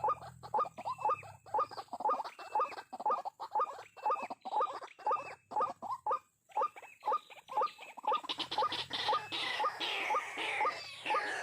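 White-breasted waterhen calling: a rapid, rhythmic series of short repeated notes, about three a second. About eight seconds in, a second, higher-pitched chatter of calls joins it.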